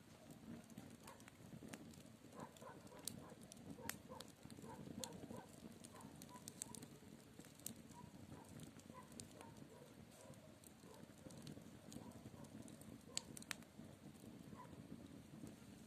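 Campfire crackling faintly, with scattered sharp pops over a steady low rush.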